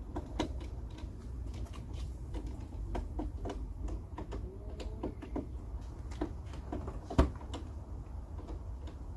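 Scattered light clicks and knocks over a low rumble, with one sharp knock about seven seconds in.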